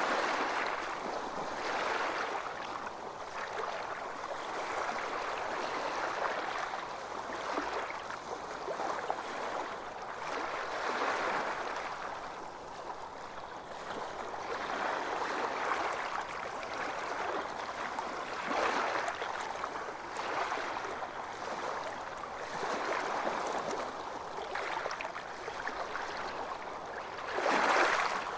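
Ocean surf washing onto a beach, the rush of water swelling and fading every few seconds, with one stronger wave breaking near the end.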